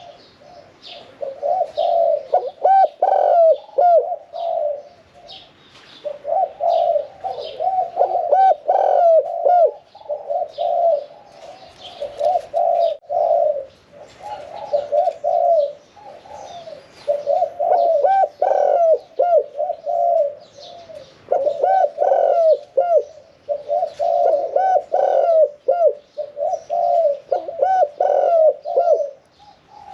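Caged spotted dove cooing over and over in phrases of one to two seconds with short pauses between. This is the medium-pitched, one-'kuk' tossed cooing style prized in Thai dove-cooing contests. Small birds chirp faintly behind it.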